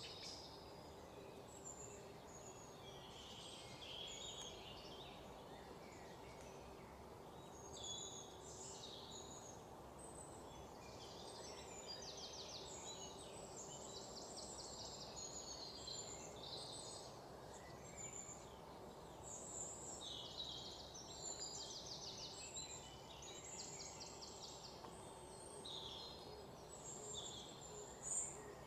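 Small birds chirping, with short scattered calls and several quick trills, over a faint steady hum.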